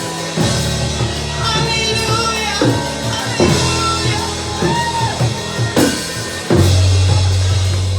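Live gospel worship band playing, with drum kit and a sung melody over the music. A deep, sustained bass note comes in about three-quarters of the way through.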